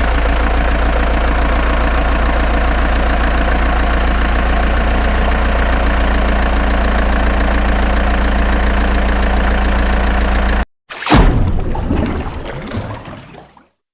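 Steady engine idling, cut off abruptly about eleven seconds in. A sudden loud boom-like impact follows and fades away over a couple of seconds.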